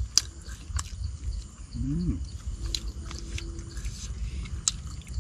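A person eating: chewing with a few sharp clicks, a short voiced sound about two seconds in, and a held low tone a little after that.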